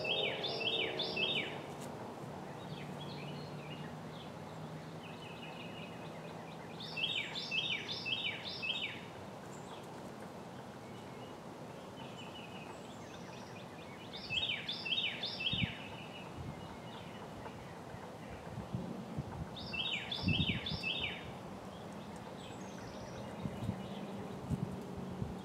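A songbird singing a short phrase of four or five quick falling notes, repeated four times about every six seconds, with softer high trills from other birds in between, over steady outdoor background noise.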